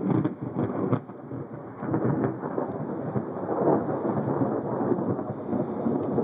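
Thunder from a close lightning strike, rumbling and rolling over steady rain. The rumble dips briefly about a second in, then swells again and carries on.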